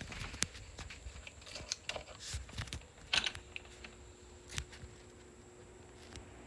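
Scattered light clicks and knocks, with a louder click about three seconds in. After it a faint steady hum of a ceiling fan motor begins.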